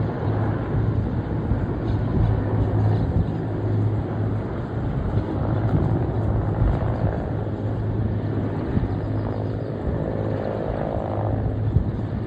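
Helicopter droning steadily overhead, a constant low hum with noise spread through the lows and mids.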